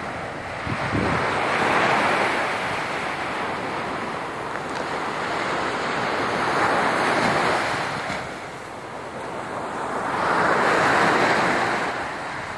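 Sea surf breaking on a beach after a storm, three waves swelling and fading in turn, with wind buffeting the microphone.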